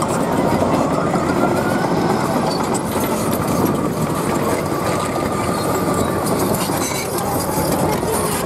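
Heavy truck engine running steadily under load, its pitch wavering slightly up and down.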